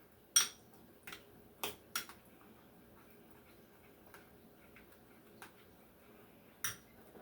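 A utensil clinking against a bowl while stirring a spice and oil marinade: a few sharp clinks in the first two seconds, then only faint ticks, and one more clink near the end.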